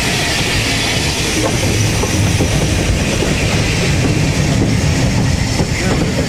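A steam gala train running past, its carriage wheels clicking over the rail joints with a steady rumble and hiss.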